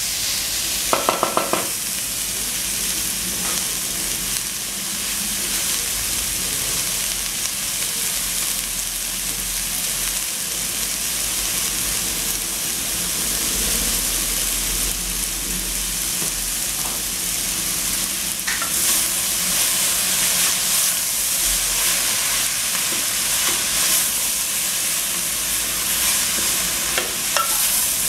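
Shredded cabbage frying in an aluminium pot with a steady sizzling hiss, stirred and scraped with a wooden spoon. A short pitched sound rings out about a second in.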